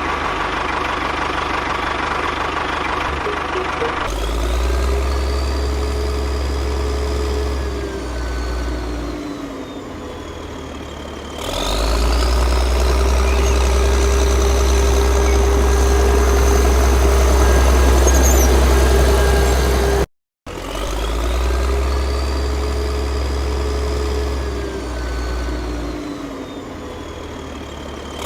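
A motor running with a deep steady rumble under a whine that rises and falls in pitch. The sound cuts out for a moment about twenty seconds in, then the same stretch plays again.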